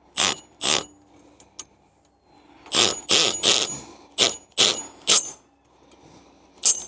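A series of about ten sharp metallic clinks at uneven intervals, several with a brief high ring, like metal parts or tools knocking together.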